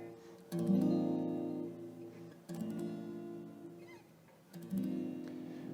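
An old acoustic guitar with old strings, a little out of tune, strumming three chords about two seconds apart, each left to ring and fade.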